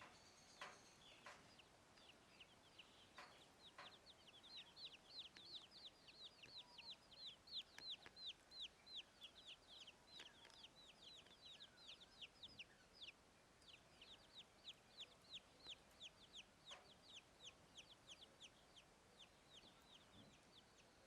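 Chicks peeping: a faint, steady stream of short, high peeps, each sliding down in pitch, several a second, with a few soft clicks among them.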